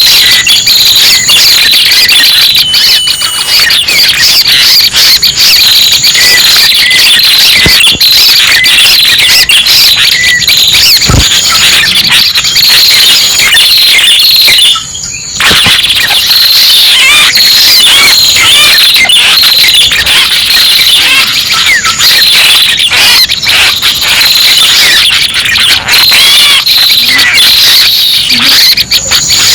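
Lure recording of red-headed prenjak calls: a dense, loud, continuous stream of high, rapid chirps and trills, broken by a brief gap about halfway through.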